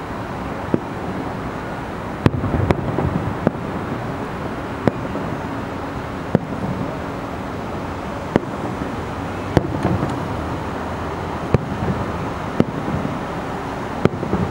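Aerial fireworks shells bursting at a distance: a dozen or so sharp bangs at uneven intervals, roughly one every second, some closely doubled, over a steady low background rumble.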